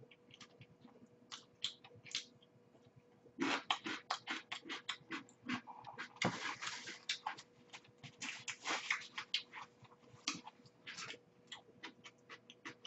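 Mouth sounds of someone eating: irregular wet smacks and clicks of chewing, sparse at first and coming thick and fast from about three seconds in.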